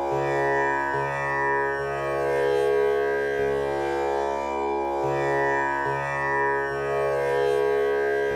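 Tanpura drone tuned to C# for a male voice: its strings plucked one after another in an unbroken cycle, about one pluck a second, each note ringing on into the next with a rich, shimmering overtone sound.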